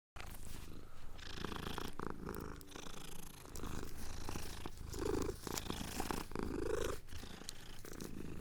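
Kitten purring steadily, with two brief soft calls about five and seven seconds in.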